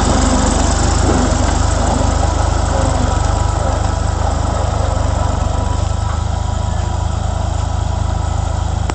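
Tractor engine running steadily, with a deep, even engine beat.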